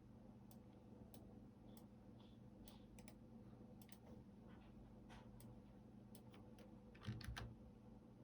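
Computer keyboard typing: scattered, irregular keystroke clicks, with a quick run of louder keystrokes and a low thump about seven seconds in.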